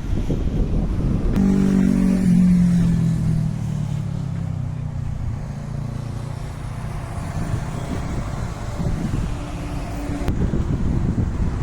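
Diesel engine of a JCB Vibromax soil compactor running with a heavy low rumble; about a second and a half in, its note rises into clear view and then slowly drops in pitch over the next few seconds.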